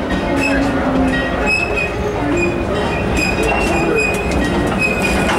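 Passenger car of a park railroad rolling on its track: a steady rumble of wheels on rail, with short high-pitched wheel squeals coming and going and scattered clicks.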